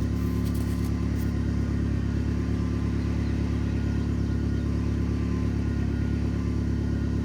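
An old work pickup truck's engine runs steadily, freshly started with the help of a little ether after sitting unused.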